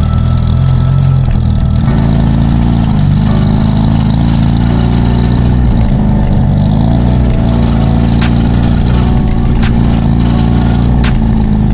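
Austin-Healey Sprite Mk II's four-cylinder OHV engine and exhaust pulling on the move, the engine note dropping and climbing again a few times as the revs change.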